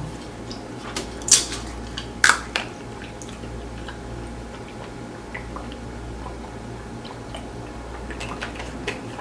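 Close-up chewing of grilled chicken, with small mouth and cutlery clicks and two sharper clicks about one and two seconds in, over a steady low hum.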